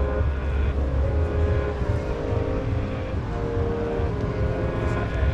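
A large engine running steadily at constant speed, a low drone with steady tones above it.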